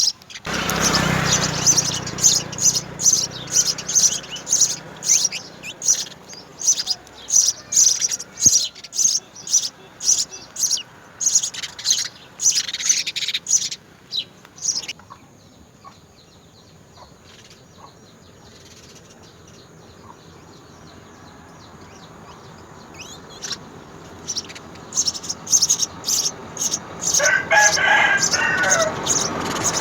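House sparrows chirping in a fast run of short, sharp chirps, a few a second. The chirping dies down about halfway through and starts up again near the end, when a longer, lower call joins it.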